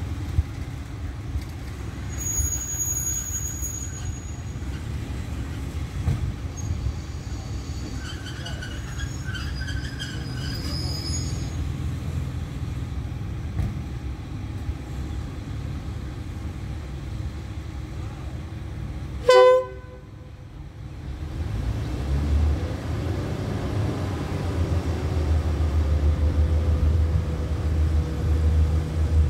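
Low diesel rumble of trains at a station, with one short, loud train-horn toot about two-thirds of the way in. After it, the rumble of a State Railway of Thailand diesel railcar drawing in on the next track grows louder.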